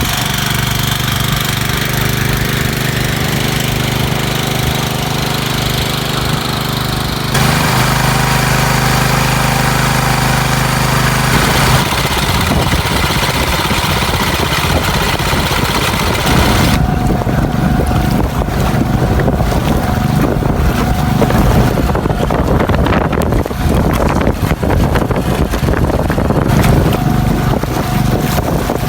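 Boat engine running steadily at sea, then wind on the microphone and rushing, splashing water taking over, with the engine still running underneath.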